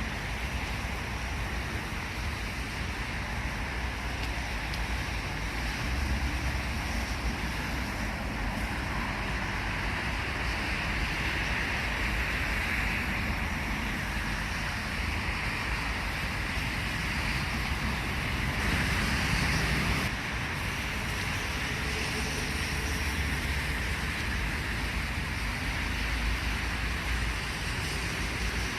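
Steady outdoor background noise: a low rumble of distant road traffic under an even hiss.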